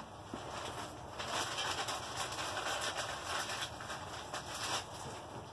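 Ziploc plastic bag of partly crushed coffee beans rustling and crackling as it is handled between mallet blows.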